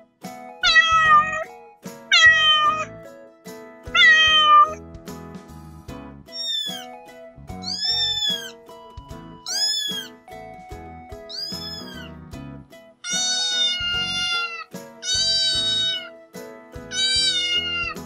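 A series of cat meows, about ten in all: the first three falling in pitch, the next four rising then falling, and the last three longer and fuller. Soft background music plays underneath.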